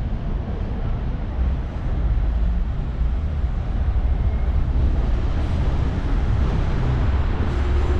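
Low, steady rumble of a train moving through the station, growing a little louder about two seconds in.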